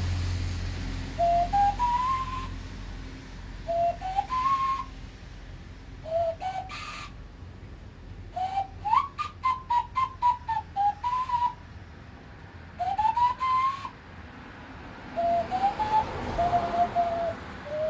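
A man whistling a tune in short phrases, each note sliding up and then stepping along, with pauses between phrases and a quicker run of notes in the middle.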